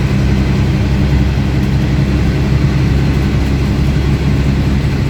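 MAN 18.220 Transbus ALX300 single-decker bus's diesel engine running at a steady, low, even pitch, heard from on board. Its exhaust is louder than usual.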